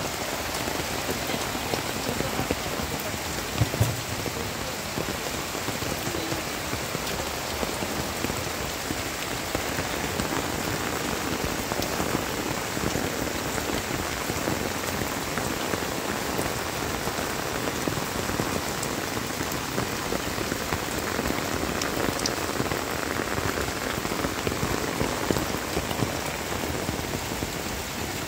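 Steady heavy rain falling on a plastic-sheet shelter and the wet rocks around it, with two brief knocks about four seconds in.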